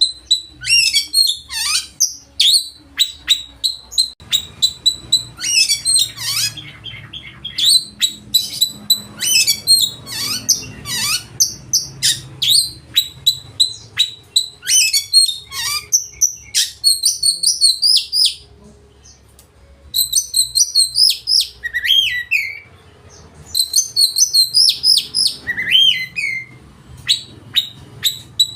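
Oriental magpie-robin singing loudly in a rapid, varied stream of chirps, whistles and sliding notes, its song packed with learned phrases, with a couple of short pauses.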